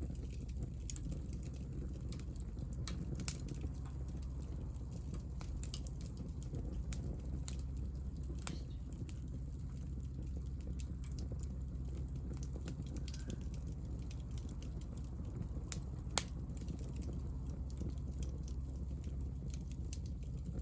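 Hinoki (Japanese cypress) offcuts burning in a small fire: a steady low rumble of flame with scattered sharp crackles and pops. Two pops stand out, one about a second in and another about four seconds before the end.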